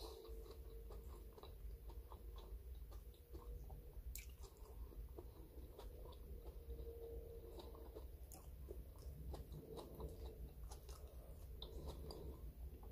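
Faint chewing of a person eating boiled beef and rice by hand, with many small scattered clicks.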